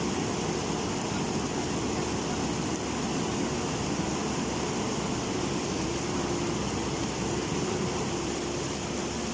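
A JCB's diesel engine running steadily under the constant rush of a rain-swollen river.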